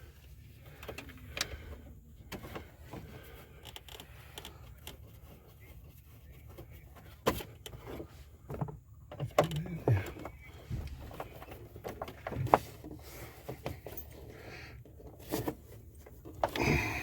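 Scattered clicks and knocks of hands, screws and a screwdriver working on trim pieces in a truck cab, over a steady low hum.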